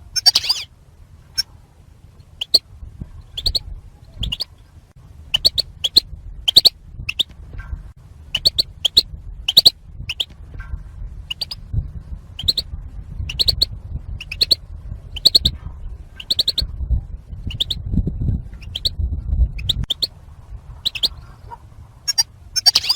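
European goldfinch hens giving their excited contact calls: short sharp notes repeated irregularly, about one or two a second, over a low rumble.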